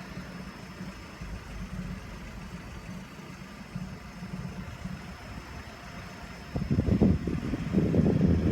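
An engine idling with a steady low hum. About six and a half seconds in, a much louder, rough rumble starts and carries on.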